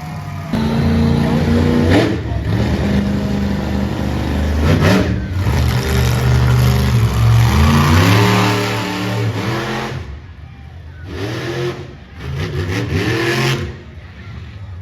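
Monster truck engine revving hard at high throttle, its pitch rising and falling with brief lifts off the throttle. It drops away about ten seconds in, then comes back in two short bursts of revving near the end.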